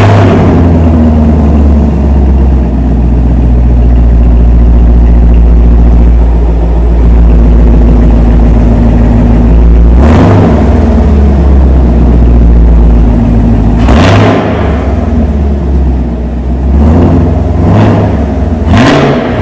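Chevrolet Camaro 2SS 6.2-litre V8 idling with a steady low rumble through its dual-mode exhaust, blipped once about ten seconds in and then in a quick run of short revs near the end.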